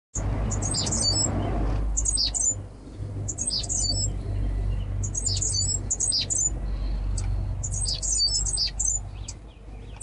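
Small birds in an aviary chirping: quick clusters of high, falling chirps that come about once a second, over a low steady hum.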